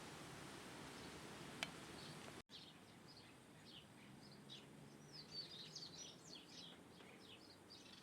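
Faint steady background hiss with a single click, then after a sudden cut small birds chirping in a quick, busy run of short, high, falling notes.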